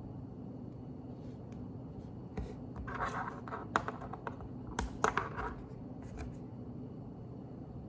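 Plastic Lego pieces being handled and pressed together: a cluster of sharp clicks and short rustling scrapes in the middle, over a steady low hum.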